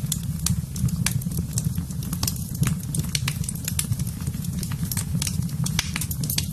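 Fire burning in a fireplace: frequent sharp crackles and pops, irregularly spaced, over a steady low rumble of the flames.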